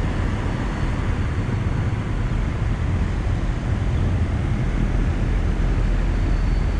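Bryant Preferred central air conditioner condensing unit running: a steady whoosh and low hum from the outdoor fan and compressor, with a faint thin high whine throughout.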